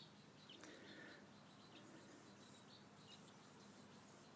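Near silence: faint background hiss with a low steady hum and a few faint high chirps.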